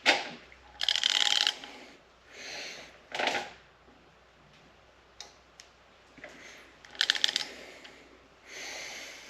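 Ratchet wrench clicking in several short bursts of rapid clicks, with pauses between, as it swings back and forth while angle-tightening Subaru EJ25 cylinder head bolts a final 90 degrees.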